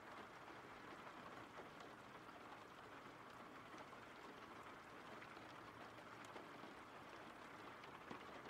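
Faint steady rain: a soft, even hiss.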